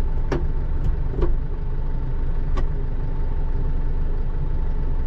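Kubota loader tractor's diesel engine running steadily, with a few short, sharp knocks in the first few seconds.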